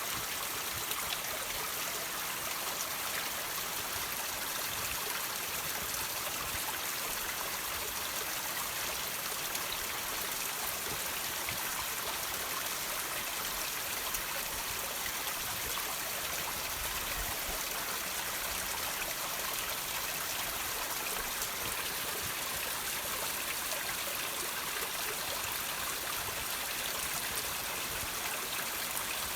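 Water trickling and dripping from rocks: a steady, even wash of running water with small drips ticking faintly through it.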